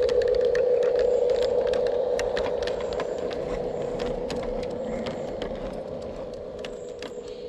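Garden-scale model locomotive running along the track: a steady motor-and-gear hum with a patter of clicks from wheels over rail joints, growing fainter as it moves away.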